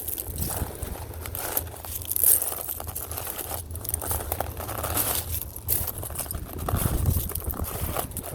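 Footsteps crunching over shells on a beach, each step a crackly crush and rattle of shell fragments underfoot, one after another.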